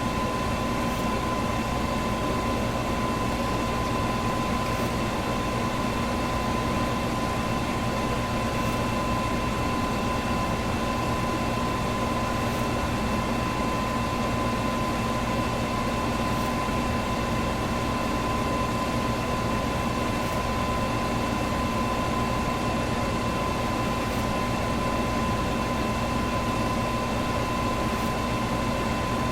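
Electric fan running steadily: an even whooshing rush with a constant motor hum and whine, and a faint tick about every four seconds.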